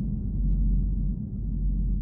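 A steady low rumble, with one faint tick about half a second in.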